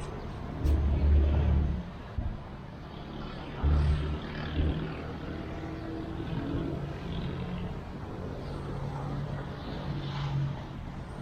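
Road traffic: vehicle engines running and passing, with loud low rumbles about one second and about four seconds in.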